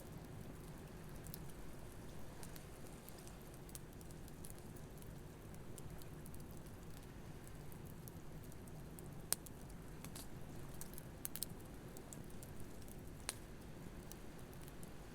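Campfire crackling with scattered sharp pops, the loudest about nine seconds in and a few more later, over a low steady wash of surf.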